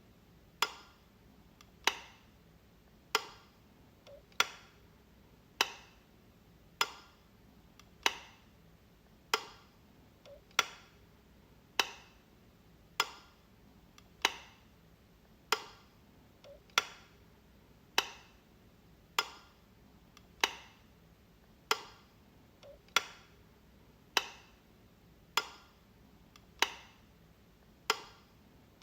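A wall light switch clicking, one sharp click about every 1.2 seconds, each with a short ringing tail.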